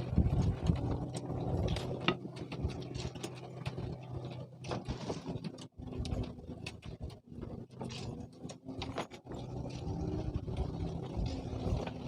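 A motor hums steadily, fading in the middle and coming back near the end, over many irregular mechanical clicks and rattles.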